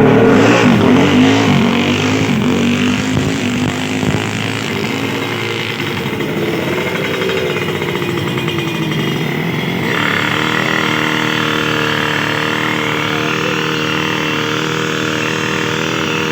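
Drag-racing motorcycle engine running and being revved while it is tuned: the revs rise and fall in the first few seconds, then settle to a steady speed from about ten seconds in.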